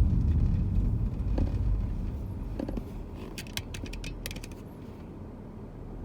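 Low rumble fading away over the first two to three seconds, then a quick run of small metallic clicks and jingles about three to four and a half seconds in.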